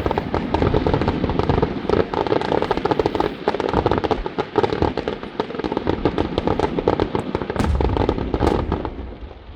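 Fireworks going off in a dense, rapid barrage of bangs, many a second, that stops abruptly near the end.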